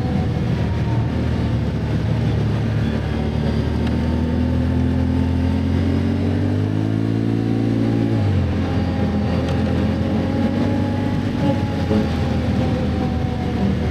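Can-Am ATV engine running under way on a trail. Its pitch climbs gradually for a few seconds, drops suddenly about eight seconds in, then holds steady.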